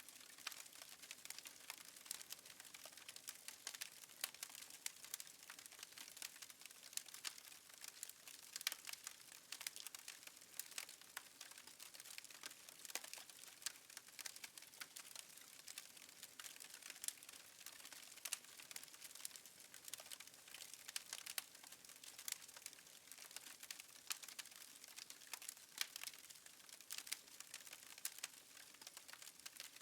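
Wood fire crackling faintly, with many small irregular pops and snaps over a soft hiss.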